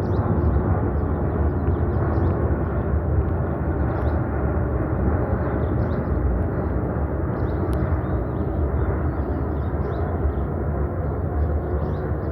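Boeing 747-8 freighter's four GEnx jet engines passing overhead: a steady, deep jet noise that holds about level throughout.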